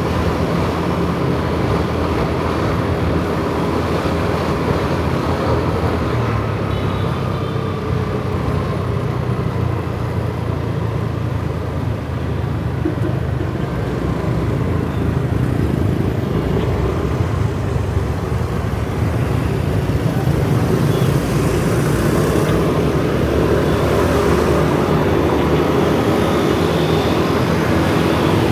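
Kawasaki ZX-4RR's inline-four engine running as the motorcycle rides through city traffic, its pitch shifting with the throttle and a little louder in the last several seconds.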